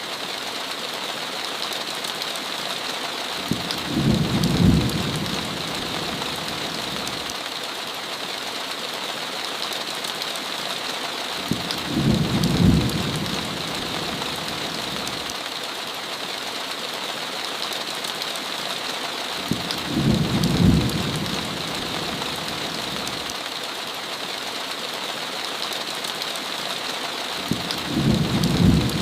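Steady heavy rain with a low rumble of thunder that swells and fades about every eight seconds, four times.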